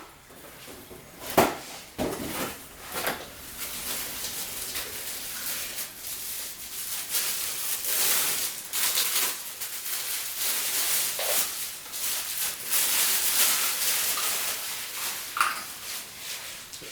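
Packing material being pulled off and handled as the last piece of a vacuum cleaner is unpacked: a few knocks, then a long stretch of rustling and crinkling.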